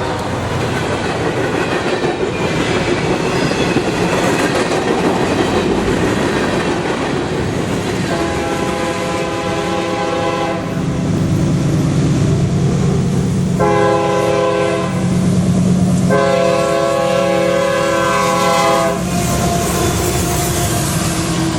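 Train running on the track with steady wheel and rail noise, while the locomotive's air horn sounds a chord of several notes in three blasts: a long one about eight seconds in, a shorter one around fourteen seconds, and another long one from about sixteen to nineteen seconds.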